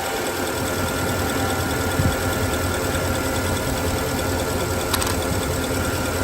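Porsche Cayenne 957 Turbo S's 4.8-litre twin-turbo V8 (M48.51) idling steadily with an even, smooth note. There is one short click about five seconds in.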